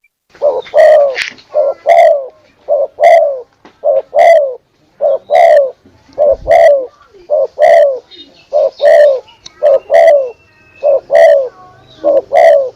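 Spotted dove (tekukur) cooing its two-part call, a short note followed by a longer one, repeated about once a second.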